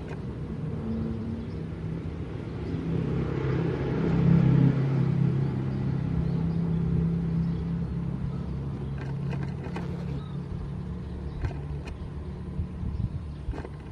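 Diesel locomotive engine running with a steady low hum as a train goes by, growing louder about four seconds in and easing off near the end, with a few faint clicks late on.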